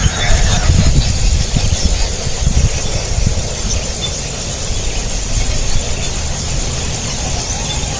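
Hungry nestlings begging for food with continuous squealing calls, over a low rumble that is loudest in the first few seconds.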